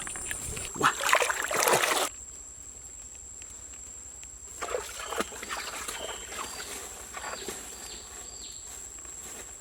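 Water splashing and sloshing for about two seconds, then cutting off abruptly to a quieter background of scattered light knocks and short high chirps, over a steady faint high-pitched tone.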